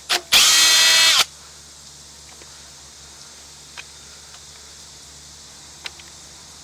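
Power drill-driver spinning out a cover screw: a brief blip, then about a second of steady motor whine near the start, followed by a couple of faint clicks.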